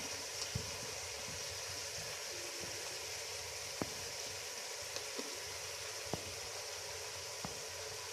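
Shredded cabbage, carrots and capsicum stir-frying with freshly added sauces in a large aluminium pot, sizzling steadily with a few faint ticks and pops.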